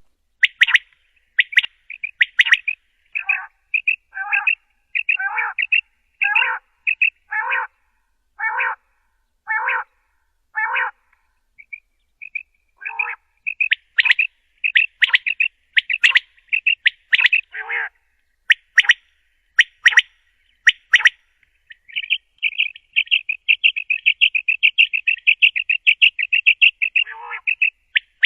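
Quail calling: short calls repeated about once a second, then a quicker, irregular run of calls, then a rapid chattering trill lasting several seconds near the end.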